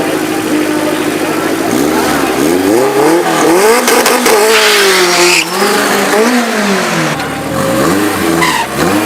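Drag-race car engine holding a steady note, then from about two seconds in revving up and down again and again, with tyre squeal in the middle.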